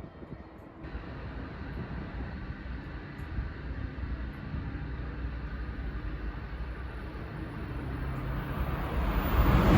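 Shinkansen bullet train approaching at high speed: a rumbling rush of wheel and air noise that grows steadily louder and swells sharply in the last second.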